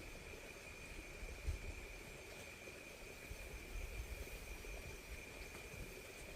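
Insects, crickets or similar, calling in a steady, unbroken high-pitched drone, over a low uneven rumble.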